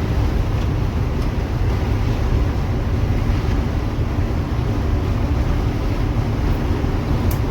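A bus's freshly rebuilt diesel engine running at steady highway speed during its break-in drive, a steady low drone mixed with road noise.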